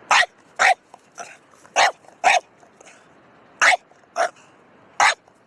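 A cocker spaniel barking: about eight short, sharp single barks at uneven intervals, a few of them coming in quick pairs.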